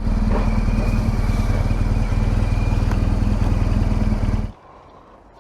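BMW R1200GS flat-twin motorcycle engine running steadily, cutting off abruptly about four and a half seconds in.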